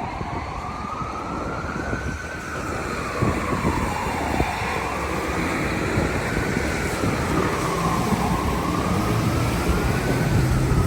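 Emergency vehicle siren wailing, its pitch slowly rising and falling about every four seconds, over the rumble of city street traffic.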